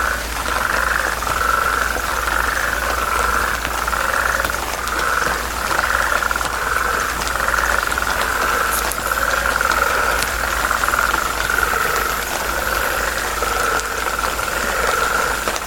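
Frogs calling in a chorus: repeated rattling, trilled calls, about one a second, overlapping with each other, over a steady low rumble.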